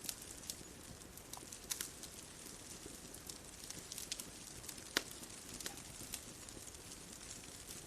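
Wood bonfire crackling: irregular sharp pops and snaps over a low steady hiss, the loudest pop about five seconds in.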